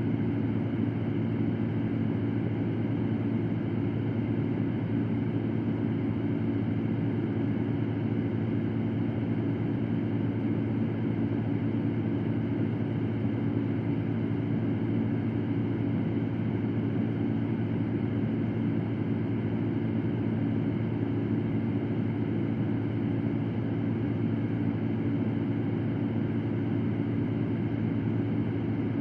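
Electric fan running steadily: an even whooshing rush of air over a low motor hum, with no change.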